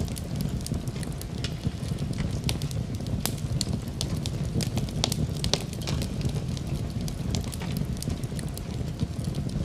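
Fireplace fire crackling, with irregular sharp pops over a steady low rumble of flames.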